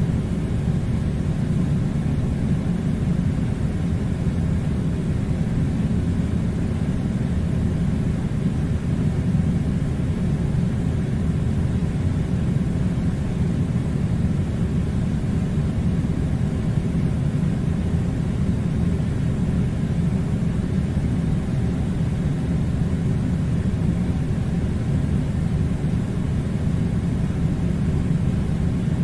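Steady low-pitched noise, even and unchanging throughout, like a constant mechanical rumble.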